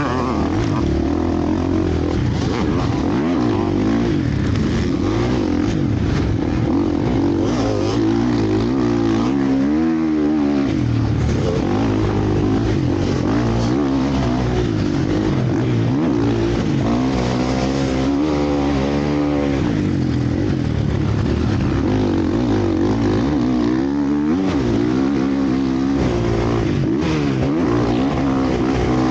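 Motocross bikes racing, several engines at once revving up and down as riders accelerate and shift, with pitch sweeps rising and falling repeatedly.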